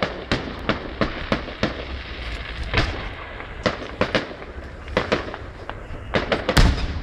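Aerial fireworks bursting: a rapid, irregular string of sharp bangs with crackling between them, the loudest bang near the end.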